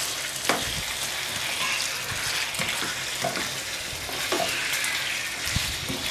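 Marinated chicken pieces sizzling in hot coconut oil in a wok, with several irregular scrapes and knocks of a spatula stirring them against the pan. The water in the marinated chicken makes the oil spit and sizzle.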